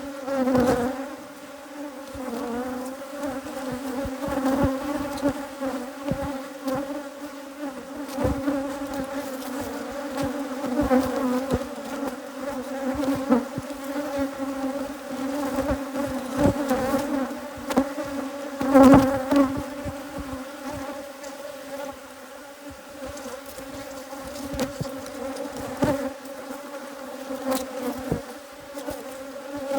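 A cloud of Africanized hybrid honeybees buzzing steadily around an opened hive, a sign of a defensive colony stirred up by alarm pheromone. Scattered clicks and knocks sound over the buzz, with the loudest about two-thirds of the way through.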